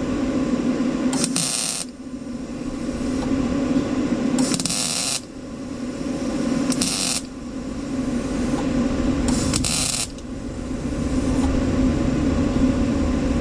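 Welder laying four short tack welds on thin body sheet metal, each about half a second long and spaced a few seconds apart, over a steady hum.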